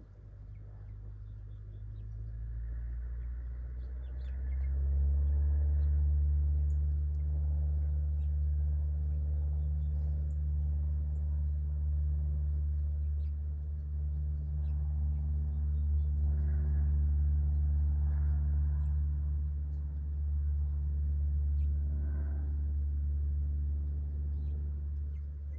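A low, steady motor hum that builds over the first few seconds, holds level and fades near the end, with faint bird chirps above it.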